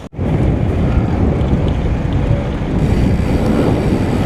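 Wind buffeting the microphone of a cyclist riding along a road: a steady, loud rushing noise. It cuts out for an instant right at the start.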